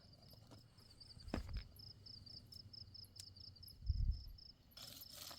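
Crickets chirping steadily in a high, even pulse of about five chirps a second. There are two dull low thumps, the louder one about four seconds in, and a brief rustle near the end.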